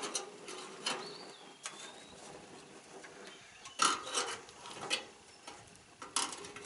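Metal parts of a CharBroil gas grill knocking and clinking as a piece is worked back into place, with a few separate sharp clanks and a quick cluster of them just before the four-second mark.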